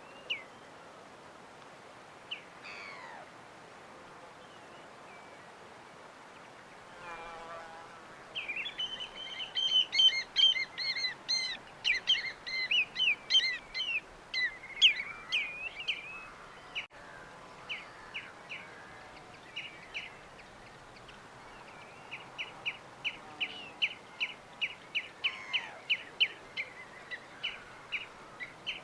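Birds chirping and calling over a steady background hiss. A busy flurry of overlapping chirps comes about a third of the way in; near the end, one bird repeats a short chirp about two or three times a second.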